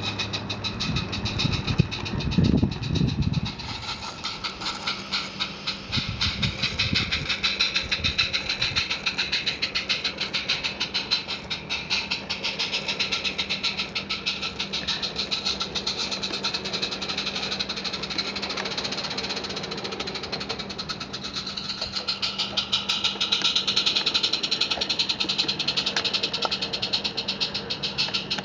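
Miniature live-steam garden railway locomotive running with a train, its exhaust beating in a rapid, even chuff over a steady low hum. A few louder low rumbling thumps come about two seconds in and again around six to eight seconds.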